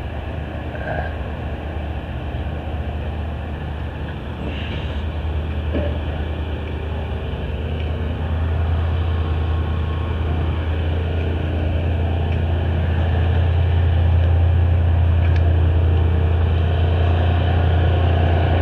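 A demolition derby car's engine running at idle, a steady low drone that grows steadily louder over the stretch, with a few faint knocks over it.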